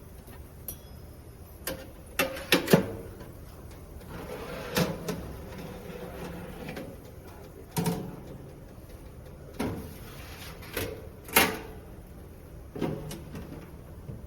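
Irregular clicks and knocks, about a dozen, from handling the toaster oven and its cooking tray with a metal grabber. The loudest come in a quick cluster a little over two seconds in and again near the eleven-second mark.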